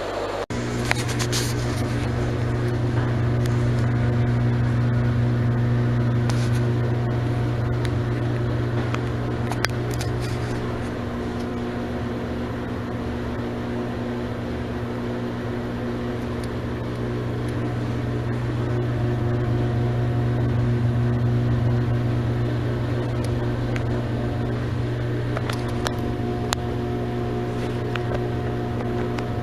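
Exhaust fan running with a steady low hum that comes on abruptly about half a second in, slowly swelling and easing in loudness, with a few faint clicks.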